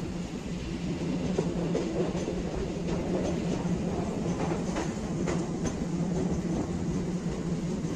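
Suburban electric train running along the track, heard from on board: a steady hum with occasional irregular clicks from the wheels passing over rail joints.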